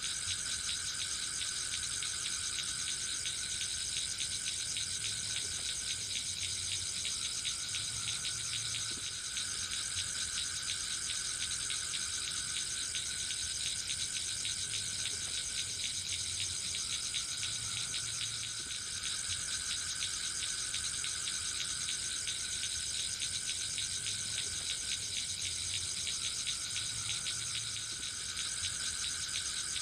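A dense, steady chorus of forest insects trilling high. A lower trill joins in and drops out again every several seconds.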